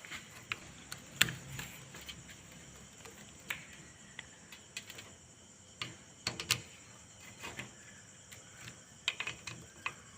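Scattered light clicks and metallic taps of hand tools and steering-rack parts being handled, coming irregularly with small clusters of quick clicks.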